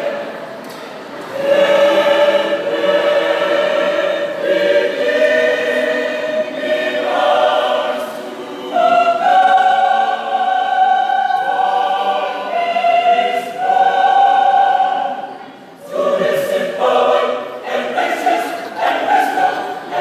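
Choir singing in harmony, holding long sustained chords, with short breaks between phrases about a second in and again near the end.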